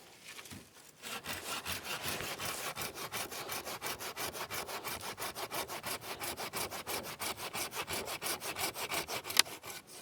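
Hand saw cutting through wood in quick, even strokes, about four to five a second, ending with one sharp snap near the end.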